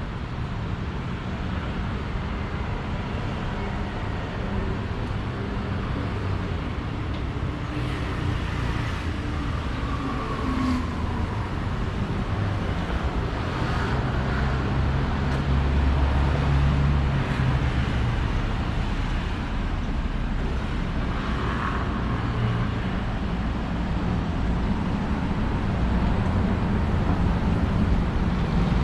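Street traffic: a continuous rumble of passing motor vehicles, with one engine growing loudest about halfway through.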